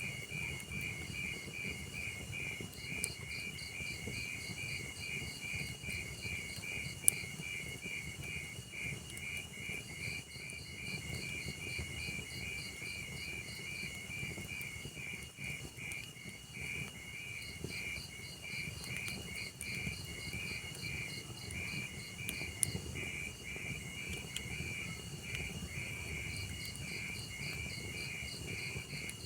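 Crickets chirping in a steady, even pulse over the low rumble of a log fire, with a few sharp pops from the burning logs, the loudest about seven seconds in.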